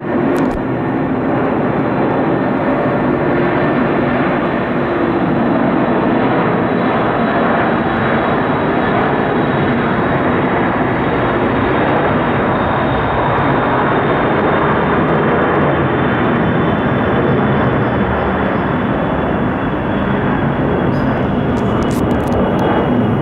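Boeing E-3 Sentry AWACS jet taking off, its four turbofan engines making a loud, steady jet roar.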